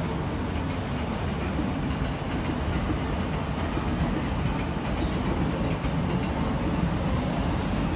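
Keihin-Tohoku Line electric commuter train running in through the station throat. Its wheels rumble steadily on the rails, growing slowly louder as it nears.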